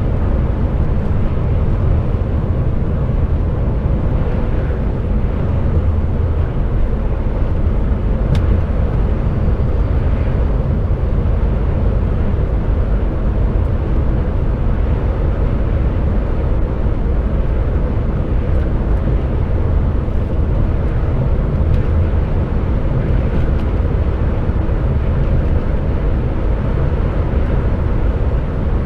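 HGV lorry's diesel engine and road noise while driving at speed, a steady low rumble.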